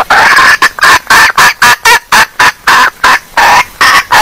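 Female red junglefowl clucking in a fast, loud run of short calls, about three to four a second: a hen's call of the kind played to lure junglefowl.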